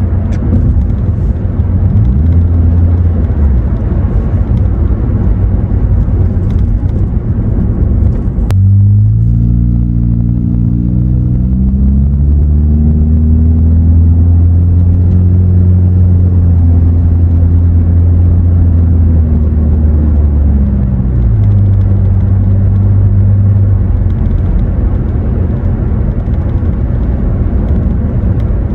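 Cabin sound of a 2017 Honda Accord LX's four-cylinder engine through a muffler-deleted exhaust while driving. At first there is mostly road noise. About eight seconds in, after a sudden break, an exhaust drone rises in pitch as the car accelerates and holds steady. About twenty seconds in it drops to a lower tone, then fades back into road noise.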